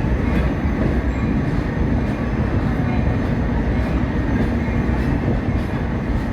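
Steady running noise of a moving passenger train: the EMD F40PHM-2 diesel locomotive and the coach wheels on the rails.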